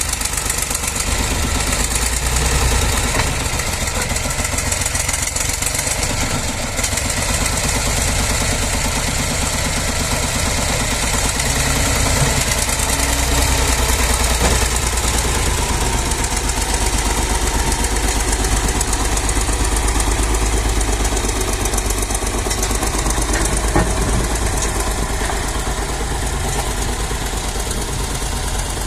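Tractor engine running steadily: a continuous low drone with a fast, even firing pulse.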